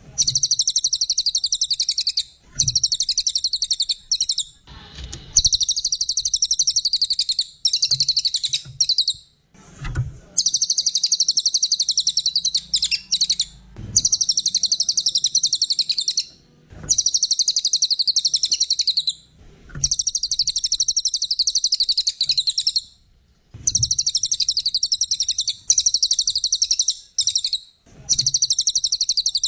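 Cililin singing continuously in long, rapid, high-pitched trilling phrases lasting a few seconds each, separated by brief pauses.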